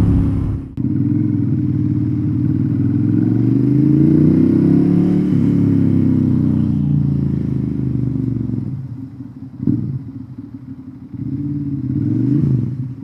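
Ducati Monster's L-twin engine through a Termignoni exhaust, ridden on the road. It cuts out briefly about a second in, rises and falls in revs through the middle, then drops to lower, uneven running with a few short blips of throttle near the end.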